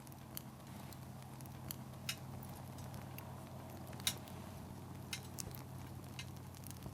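Wood campfire crackling: scattered sharp pops and snaps of burning firewood, the loudest about four seconds in, over a low steady rush of the fire.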